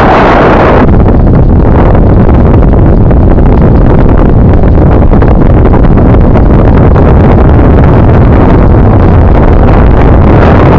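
Wind buffeting the microphone of a camera on a moving bicycle: a loud, steady rumble, with a brief brighter gust right at the start.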